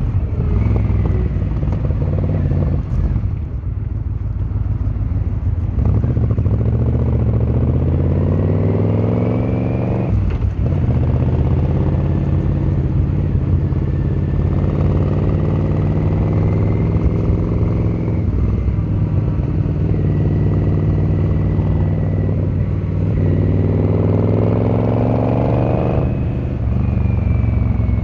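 Yamaha XVZ1300 Royal Star's V4 engine running under way. Its pitch climbs twice as the bike accelerates, with a short dip at each gear change, about ten seconds in and again late on.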